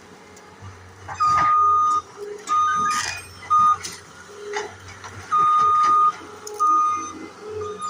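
A single-tone electric horn sounding in five blasts of uneven length, the first and fourth nearly a second long and the others short, over a low steady engine hum. Several sharp knocks and cracks fall between the blasts.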